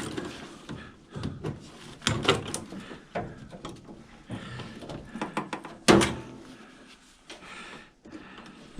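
Knocks, clicks and clatter of metal parts being handled while an old microwave oven is taken apart for scrap, with one loud bang about six seconds in.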